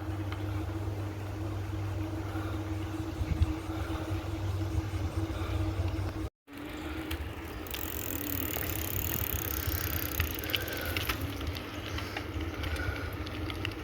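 Riding noise from a moving bicycle: a steady low rumble of wind on the microphone and a steady tyre hum, with scattered small ticks and hiss in the second half. The sound cuts out completely for a moment about halfway through.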